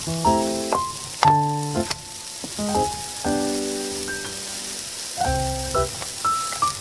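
Julienned carrot strips sizzling in oil in a frying pan as they are stir-fried. Background music in short separate notes plays over the sizzle and is louder than it.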